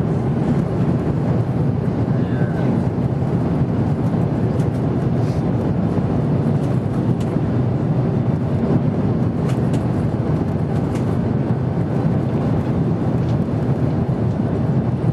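Steady cabin noise of an Airbus A330-200 in flight on approach: an even, constant low rumble of the engines and rushing air, heard from inside the cabin.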